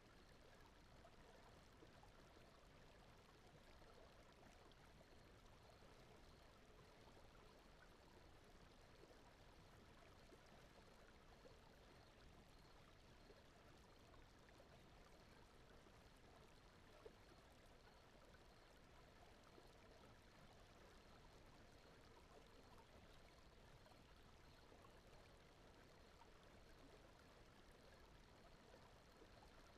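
Faint, steady sound of gently running water, with a single soft tick partway through.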